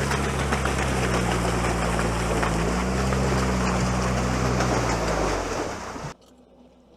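Amphibious all-terrain vehicle's engine running steadily under load while it moves through water, with a hiss of water over the engine's hum. The sound cuts off abruptly about six seconds in.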